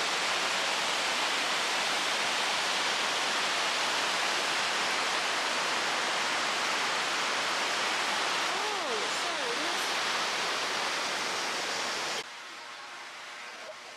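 A waterfall rushing, a steady, loud, even roar of water that cuts off suddenly about twelve seconds in to a much quieter background. A faint wavering whistle is heard briefly around nine seconds.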